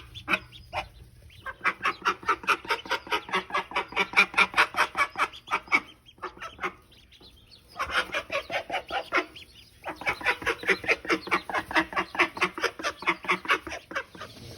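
Domestic fowl calling in fast runs of short repeated notes, about four or five a second, in three stretches broken by short pauses.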